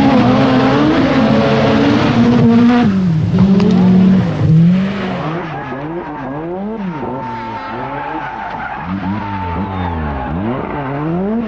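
Rally car engine at high revs, held fairly steady at first, then from about five seconds in rising and falling sharply again and again as it is revved through gear changes and lifts, with tyre skidding noise.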